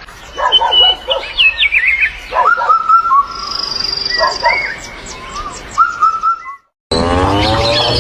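Birds chirping and whistling in short, varied calls, with a high steady trill in the middle. Near the end, after a brief break in the sound, a rooster starts to crow.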